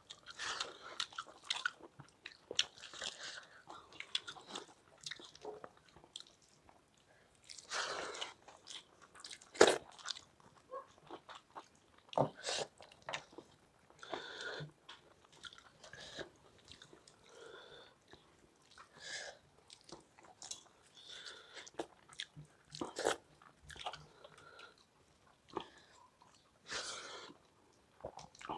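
Close-up eating sounds: two people chewing and smacking mouthfuls of rice and palak paneer eaten by hand, with irregular crunches and clicks. One sharp loud click stands out about ten seconds in.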